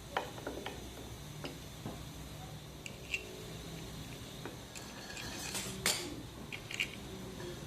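Metal engine parts and hand tools being handled on a workbench: a string of separate clinks and taps, and a brief scrape about six seconds in that is the loudest sound.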